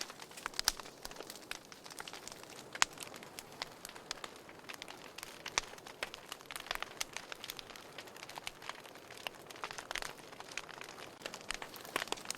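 Wood fire burning in a fireplace: irregular crackles and sharp pops from the burning logs over a soft steady hiss, with one louder pop about three seconds in.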